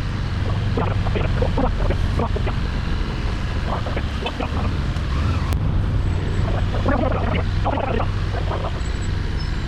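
Small motorbike engine running steadily while riding, with wind noise on the microphone.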